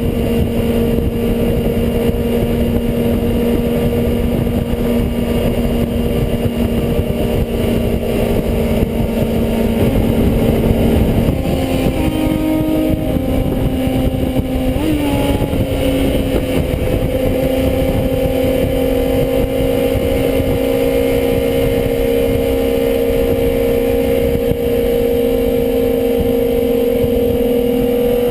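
Motorcycle engines running steadily under a constant low rumble, with a held engine note whose pitch shifts slightly about halfway through and then stays level.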